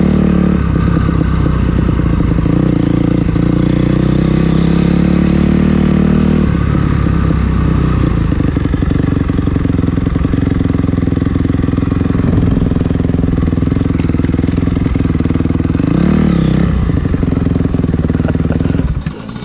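Dirt bike engine running under way, its pitch rising and falling with the throttle, with a short rev about sixteen seconds in; the sound drops off just before the end.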